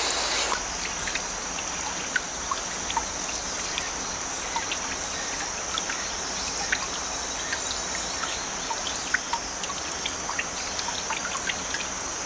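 Shallow stream trickling and bubbling over rocks, with many small droplet ticks, under a steady high trill of autumn crickets.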